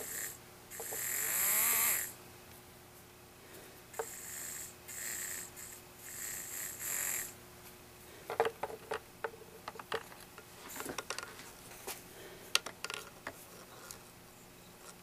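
Small electric motor of a Savox 236 servo whirring in four short bursts in the first seven seconds, the longest and loudest about a second in with its pitch rising and falling. It fires only when the motor is wiggled on the board: an intermittent connection at a bad motor tab. From about 8 seconds in, a run of small sharp clicks and taps.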